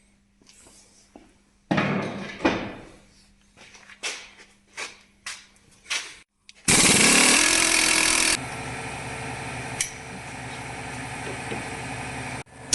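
Workshop tool work on the suspension: a few sharp metal knocks and clicks, then a power tool starts loudly for about a second and a half and runs on steadily at a lower level until it stops abruptly near the end.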